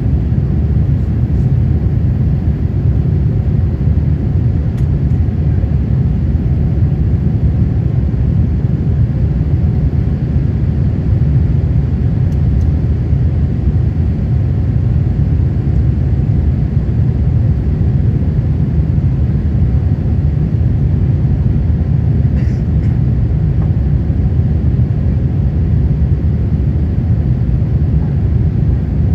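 Steady low cabin rumble of a Boeing 787-8 climbing out after takeoff, heard inside the cabin: its Rolls-Royce Trent 1000 engines and the airflow along the fuselage.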